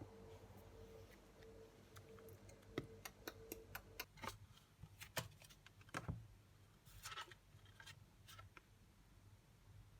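A run of light, irregular clicks and taps against near silence, heaviest between about three and six seconds in. A faint steady hum underneath stops about four seconds in.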